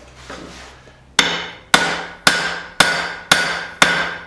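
Blacksmith's hand hammer striking steel: six evenly spaced, ringing blows, about two a second, starting about a second in.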